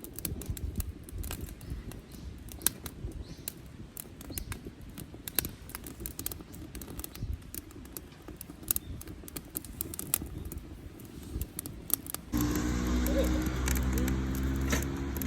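Wood fire crackling and popping in a pail-can fire stove: irregular sharp snaps over a low rumble. About 12 seconds in, a steady low hum starts suddenly and runs on under the crackling.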